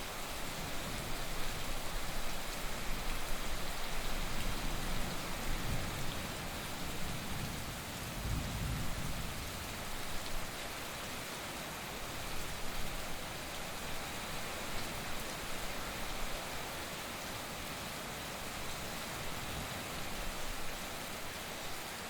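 Heavy rain falling steadily, with a low rumble of thunder through the first half that is strongest about eight seconds in.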